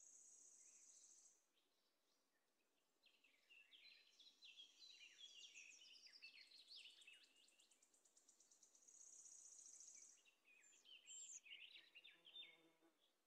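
Faint birdsong: high, fast trills alternating with runs of quick, falling chirping notes.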